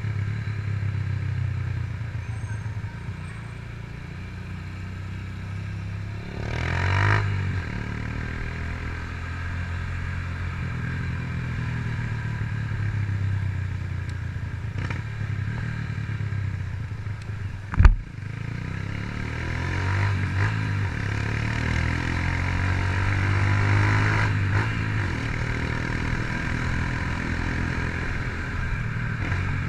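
2007 Honda CG Titan 150's carbureted single-cylinder four-stroke engine running through a Fortuna aftermarket exhaust while the motorcycle is ridden, its note swelling and easing with the throttle. A single sharp knock about eighteen seconds in.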